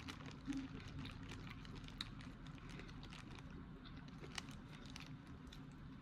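Close-up eating sounds from a seafood boil mukbang: scattered wet clicks and crackles of chewing and handling food, a few sharper snaps about half a second, two seconds and four and a half seconds in.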